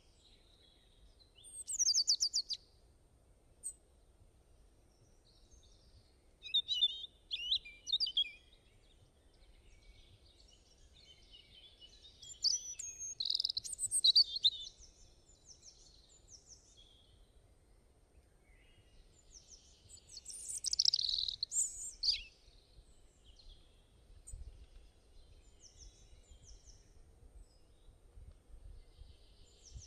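Wild birds singing and chirping: loud bursts of high-pitched song about 2 s, 7 s, 13 s and 21 s in, with softer chirps between, over a faint low background rumble.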